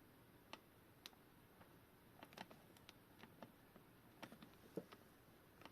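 Faint, irregular small clicks and taps of clock gears and movement parts being handled and tried into place while the clock movement is reassembled, over near silence.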